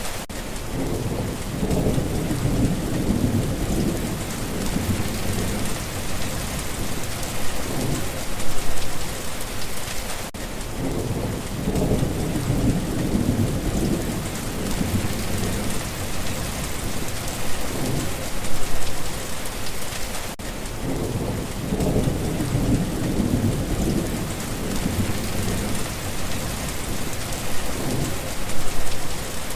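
Steady rain falling with low rolls of thunder that swell and fade, repeating about every ten seconds.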